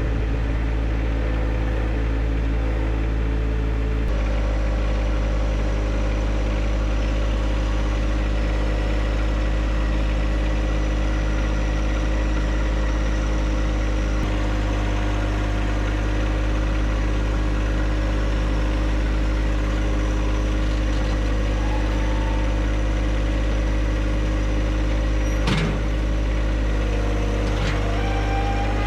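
John Deere 1025R compact tractor's three-cylinder diesel engine running steadily, with a single sharp knock near the end.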